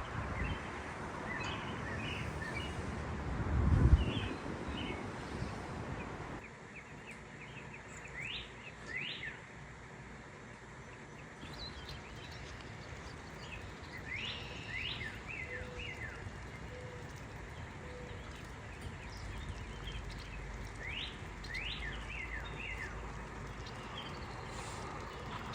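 Small birds calling outdoors: scattered chirps and several quick rising calls, some in short runs. Wind buffets the microphone for the first several seconds, with a strong gust about four seconds in.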